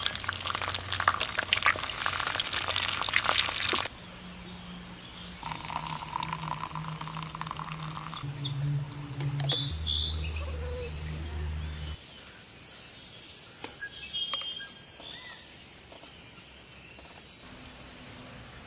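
Small birds chirping in short high calls across a few edited outdoor clips. A loud, crackling hiss fills the first four seconds and stops abruptly.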